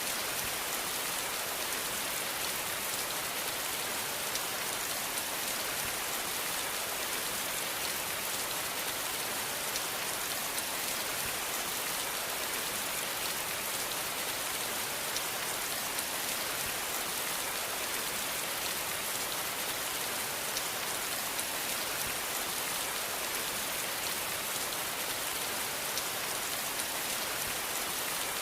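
Steady rain falling, an even hiss with a dense patter of drops that never lets up.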